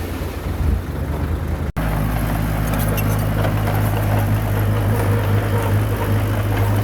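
Small Komatsu crawler bulldozer's diesel engine running steadily, with a few faint ticks above it. The sound cuts out for an instant a little under two seconds in, then the same steady engine note carries on.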